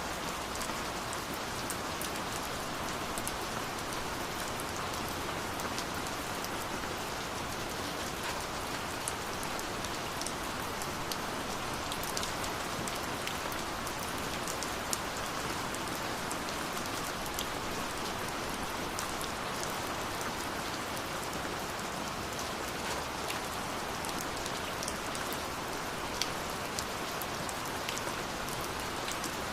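Steady rushing of a waterfall with scattered sharp crackles and pops of a burning wood fire over it.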